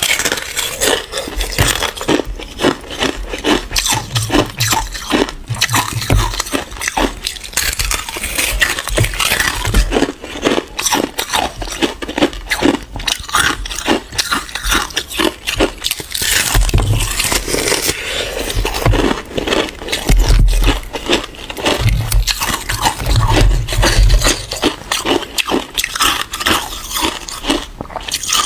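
Ice being bitten and chewed close to the microphone: continuous, irregular crunching and cracking, with some heavier, deeper bites in places.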